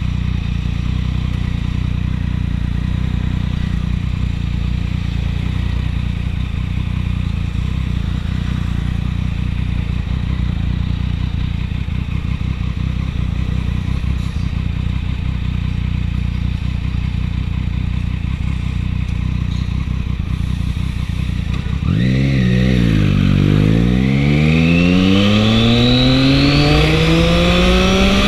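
Triumph 675 motorcycle's three-cylinder engine running steadily at low revs. About two-thirds of the way in, its pitch dips briefly, then rises steadily as the bike accelerates.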